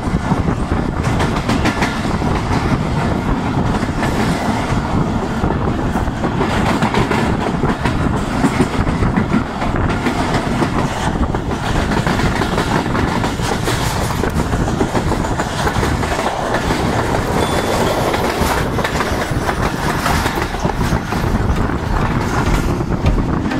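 Passenger coaches of the Tezgam Express running at speed, heard from an open window of a moving coach. A steady rumble of wheels on track, with rapid clickety-clack of the wheels over rail joints.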